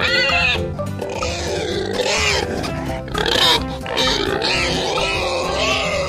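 Piglets squealing several times over background music.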